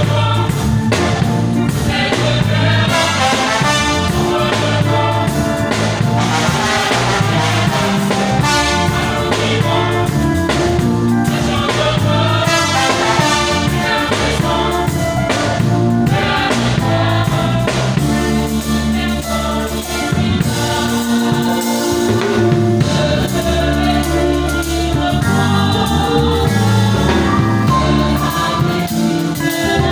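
Choir singing with band accompaniment, with drums and bass keeping a steady beat under the voices.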